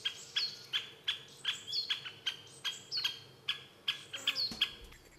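A bird calling a quick run of short, sharp notes, about three a second, that stops shortly before the end.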